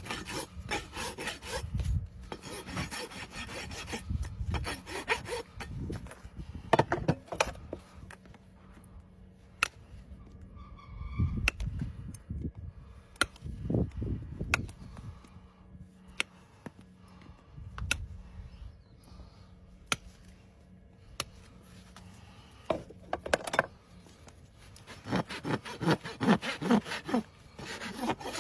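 Farrier's rasp filing a horse's hoof in bursts of quick back-and-forth strokes near the start and again near the end. A quieter stretch of scattered clicks and a few low thuds comes between them.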